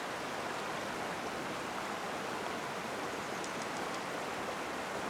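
Steady rush of flowing stream water, even throughout, with a few faint high ticks about three and a half seconds in.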